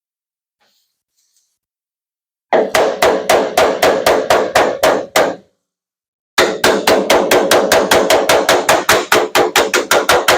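Body hammer tapping out a dent in a steel pickup-bed panel: two quick runs of ringing metallic blows, about four or five a second, the first starting a couple of seconds in and the second after a short pause.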